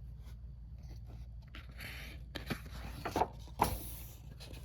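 A picture-book page being turned: a brief paper rustle, then a few soft knocks from handling the book, the loudest near the end, over a steady low hum.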